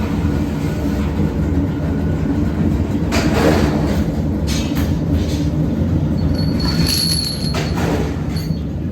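Workshop machinery running with a steady low hum, broken by a few short metal clatters and a brief high squeal about two-thirds of the way through.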